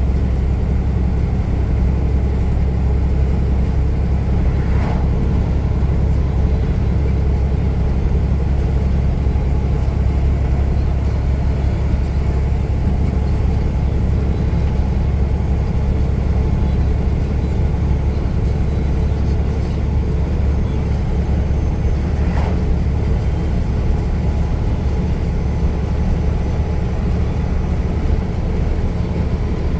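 A truck being driven, with a steady low rumble of engine and road noise. Two faint brief clicks come about five seconds in and again past twenty seconds.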